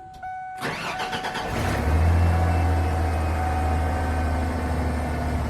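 Ford F-150's 300 cubic inch (4.9 L) straight-six being started: a steady warning chime cuts off as the starter cranks for about a second. The engine catches about two seconds in, swells briefly, then settles into a steady idle.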